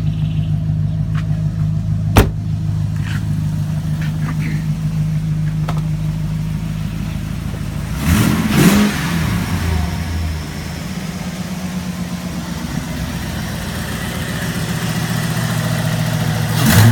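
Holden 5-litre V8 idling steadily, revved briefly twice, about eight seconds in and again near the end, its pitch rising and falling back each time. A single sharp click about two seconds in.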